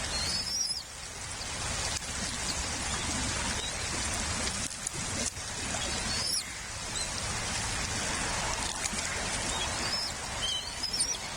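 Steady patter of rain. A few short, high, rising chirps from a bird cut through it: one just after the start, one about six seconds in, and two near the end.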